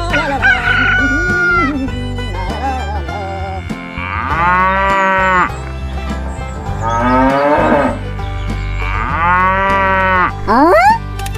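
Cattle mooing: three long, drawn-out moos, over a steady bed of background music.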